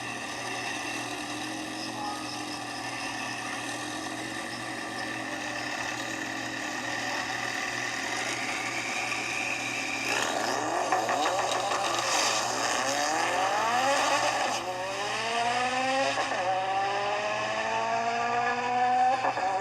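Drag car engine running steadily, then launching about ten seconds in and accelerating hard. Its pitch climbs, drops back at each upshift and climbs again, several times over.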